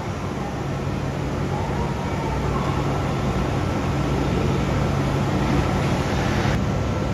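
Kintetsu 16000 series limited-express train standing at the platform, its onboard equipment giving a steady low hum. There is a faint click about six and a half seconds in.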